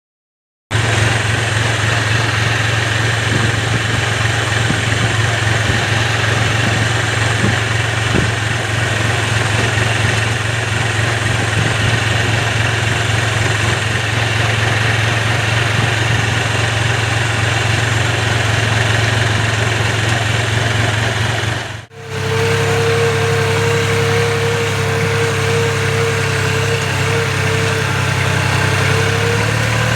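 New Holland tractor's diesel engine running steadily. There is a brief dropout about two-thirds of the way through, after which a steady higher whine joins the engine sound.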